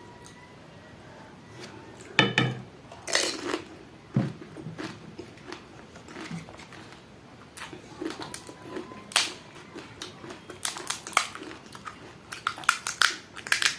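Pani puri being eaten close to the microphone: crisp puri shells crunching and chewed, with scattered clicks and clinks of tableware, thickest near the end.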